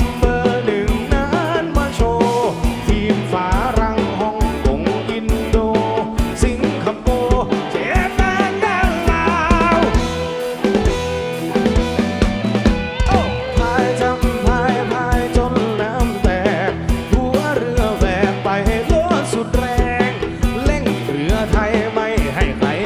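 Live rock band music with a steady drum kit beat and guitar, and a wavering melody line over it.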